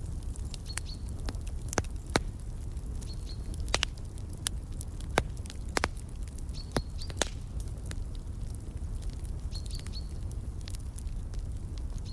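Wood fire crackling, with irregular sharp pops over a low steady rumble, while a small bird gives a short high chirp every couple of seconds.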